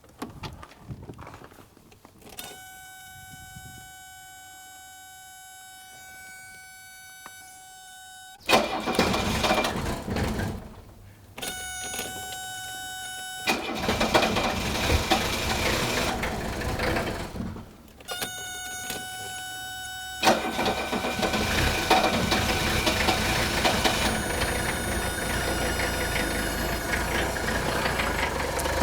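A 1979 Mercedes 300SD's OM617 five-cylinder turbo diesel is cold-started three times. It catches and runs for a few seconds, then dies, twice, with a steady high tone sounding before each attempt. On the third start it keeps running. Starting and then quitting when cold is the fault being diagnosed.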